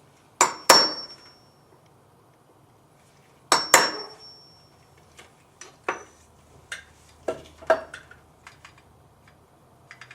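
Sharp metal-on-metal strikes with a brief high ring: two pairs of loud hits, near the start and about three and a half seconds in, followed by lighter clicks and taps of small metal parts.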